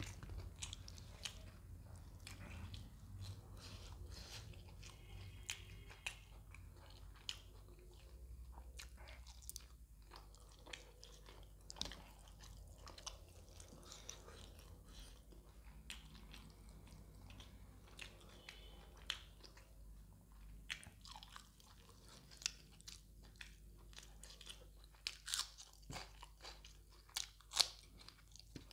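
Close-miked chewing and wet mouth sounds of someone eating fish curry with roti, with scattered sharp clicks and crunches. Near the end comes a run of louder crunchy bites as a fresh green chilli is bitten into.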